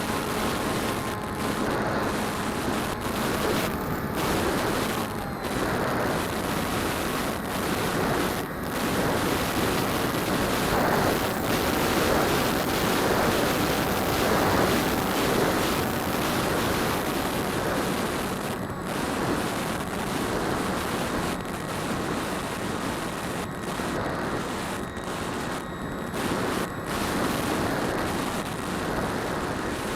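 Propellers and motors of a DJI Phantom quadcopter in flight, heard through the onboard keychain camera's microphone as a steady rushing noise with a faint motor whine, mixed with wind.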